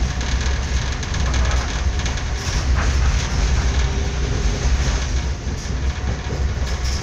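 Passenger train running along the track, heard from inside the carriage: a steady, deep rumble with scattered clicks from the wheels on the rails.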